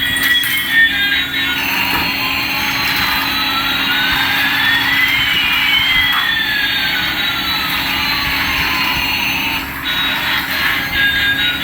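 Electronic toy sound effect from a small speaker: over a steady hum, two tones glide in opposite directions, one rising and one falling, crossing mid-way over about eight seconds, then stopping abruptly near the end.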